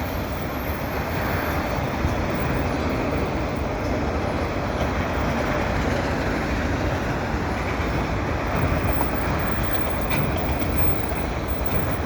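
Canadian Pacific freight train's cars rolling steadily past: a continuous rumble of wheels on rail.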